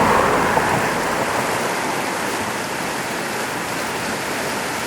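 Swollen creek in flash flood, its fast floodwater giving a steady rush of water noise. A car passing on the wet bridge road adds to it at the start and fades over the first second or two.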